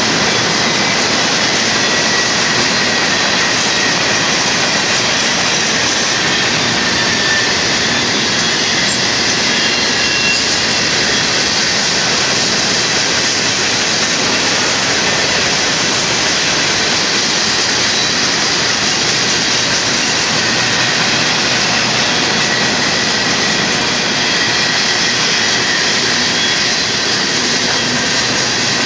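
Union Pacific freight train's centerbeam flatcars and boxcars rolling steadily past close by: a loud, even rumble of wheels on rail, with faint high squealing tones now and then from the wheels.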